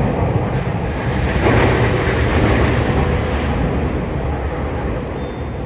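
Tokyu 3020 series electric train running, heard from inside the train: a steady low rumble with rushing noise that swells for a couple of seconds starting about a second and a half in, then eases off slightly.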